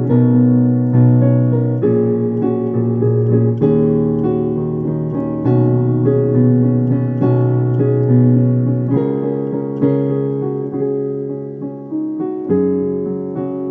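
Solo piano played slowly and gently: chords over a low bass note, struck about every second or two and left to ring and fade.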